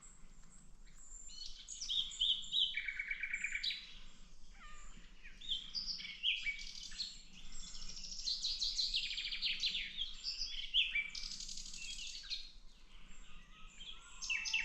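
Nightingale song: a string of varied phrases, many built from fast runs of repeated notes, with short whistles between them and brief pauses.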